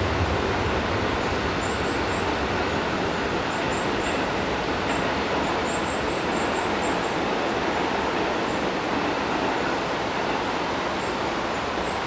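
JR West 221-series electric train running away from the platform into a tunnel: a steady rolling rumble of wheels on rails that eases slightly as it goes.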